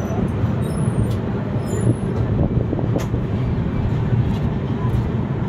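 Passenger train rolling slowly out of the station, a steady low rumble heard from the open coach doorway, with a few light clicks.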